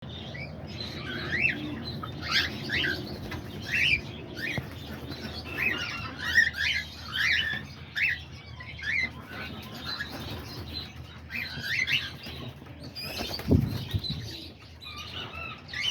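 Small pet birds in an aviary, a mix of budgerigars, cockatiels and lovebirds, chirping and chattering in quick repeated calls, with some wing flapping. A brief low thump comes about three-quarters of the way through.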